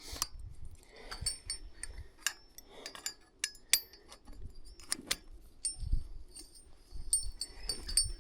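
Irregular metallic clicks and clinks, some with short high ringing pings, from high-tensile fence wire and its tensioning hardware being worked.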